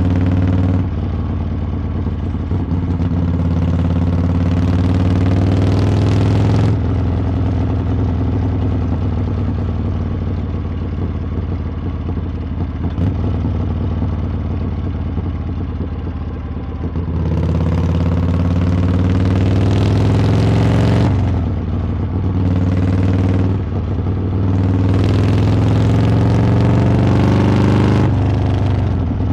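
Harley-Davidson V-twin motorcycle exhaust while riding: the engine runs steadily at first. In the second half the throttle opens and the pitch climbs, broken by three short dips as it shifts up through the gears.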